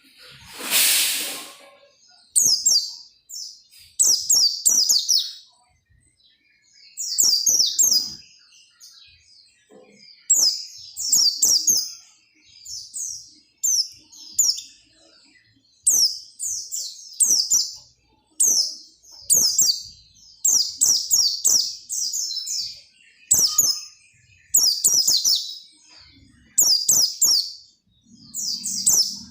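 A pleci (white-eye) singing vigorously in short, rapid, high twittering phrases of about a second each, repeated over and over with brief pauses between. A short rushing noise comes about a second in, and faint clicks are scattered throughout.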